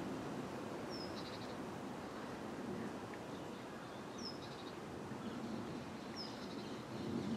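A bird calling three times, a few seconds apart: each call a short high falling note followed by a quick rattle, over a low steady background rumble.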